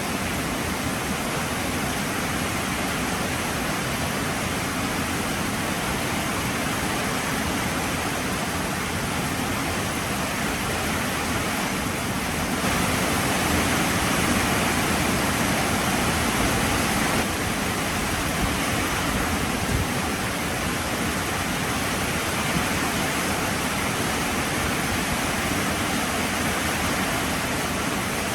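Heavy rain falling steadily, a dense even hiss that turns briefly louder for about five seconds near the middle.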